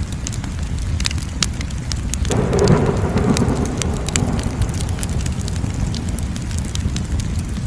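Wood fire crackling, with sharp pops scattered over a steady low rumble. A little over two seconds in, a sudden rush of noise sets in and dies away over about two seconds.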